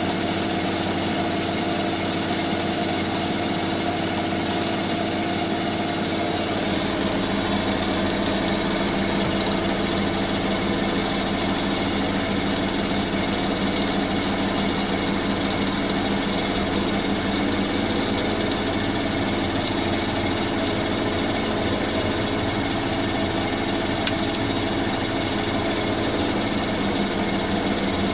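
Bosch WAN28220FF front-loading washing machine running on a synthetics 40 °C cycle: a steady motor hum with the drum and cabinet vibrating, and a deeper low hum coming in about six seconds in.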